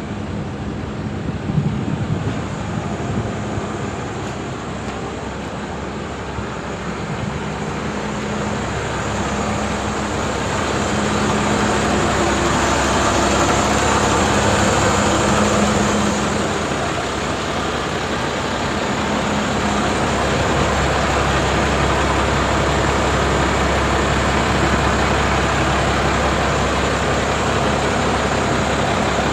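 Renault Midlum 220 dCi truck's diesel engine running steadily, getting louder about ten seconds in, with a lower steady hum setting in from about twenty seconds in.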